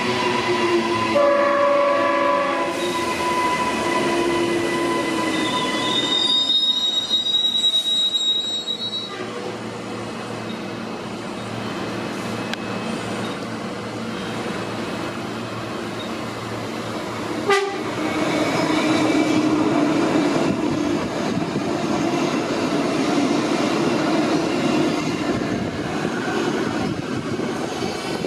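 Queensland Rail electric multiple-unit trains moving through a station. There is a steady electric motor whine, then a short horn blast about a second in. A high-pitched wheel squeal comes on the curve from about six to nine seconds. A single sharp clank comes a little past halfway, and after it the steady rumble of a train rolling past.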